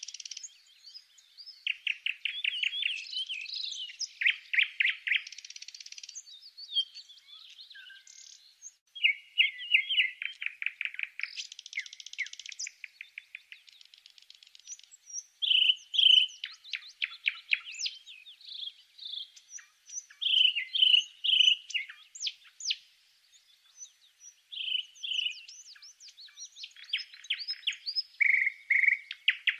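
Songbirds singing: phrases of fast repeated chirps and trills, one after another with short pauses between.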